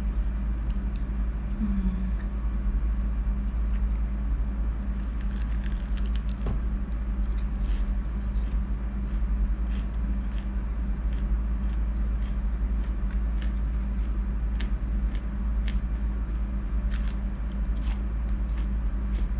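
Chewing and biting into battered squid, with scattered crisp crunches, a cluster of them about five seconds in, over a steady low hum.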